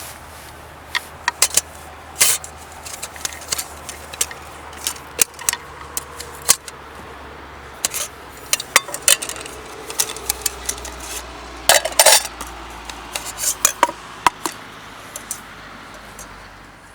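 Metal cookware and utensils being handled: irregular sharp clinks, knocks and scrapes of pots, pans and cutlery, with a dense cluster about twelve seconds in.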